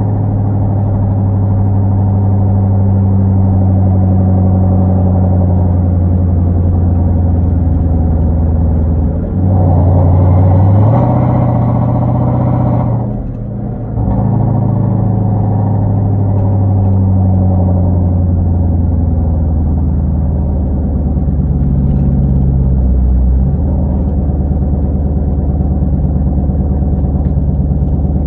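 Hyundai Genesis 5.0 sedan's V8 running through a catless 2.5-inch exhaust while driving, at a steady drone. About a third of the way in it opens up into a louder acceleration, which cuts off suddenly after a few seconds. It then settles back to a steady cruise, with a drop in pitch shortly before the end as it shifts.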